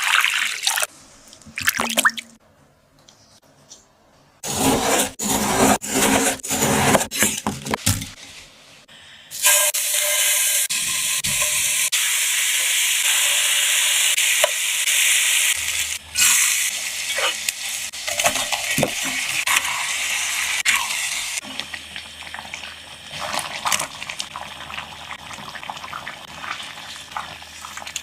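Water running steadily from a kitchen tap for about twelve seconds, with scattered knocks and clatter of handling before it and softer sink noise after.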